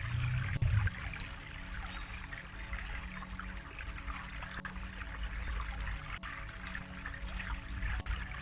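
Water trickling steadily over a low rumble; the rumble swells briefly in the first second.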